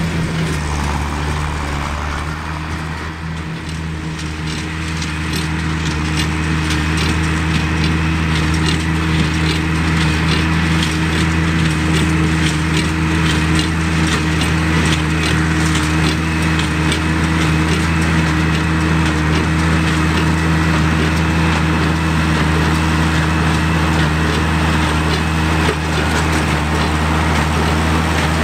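Oliver 770 tractor's six-cylinder engine running steadily under load on a New Holland 276 Hayliner small square baler with thrower, over the baler's regular rhythmic clatter. The sound dips a little a few seconds in, then holds steady.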